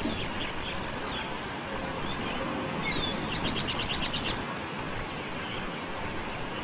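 Small birds chirping over a steady outdoor hiss. A little past the middle comes a quick trill of about eight high notes in one second.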